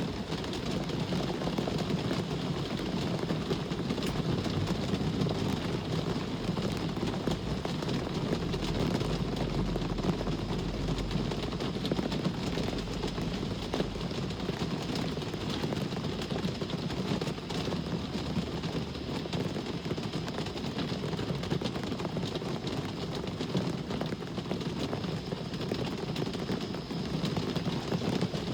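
Steady rain mixed with the wash of road traffic, with a deeper low rumble swelling about eight seconds in and fading a few seconds later.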